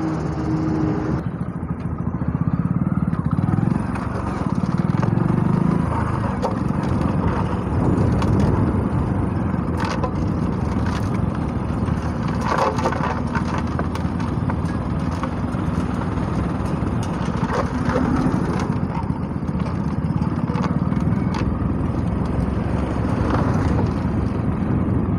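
Hero Splendor Plus motorcycle's small single-cylinder four-stroke engine running as the bike rides along at low speed, with tyre and wind noise and a few scattered clicks.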